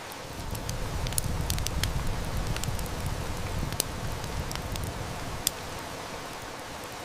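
Wood fire crackling with scattered sharp snaps over a steady hiss of heavy rain. A low rumble swells in the first few seconds and fades about five seconds in, and a single loud snap comes around the same time.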